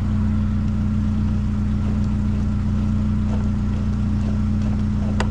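Vehicle engine idling with a steady low hum, with scattered light clicks and taps of parts being handled and one sharp click near the end.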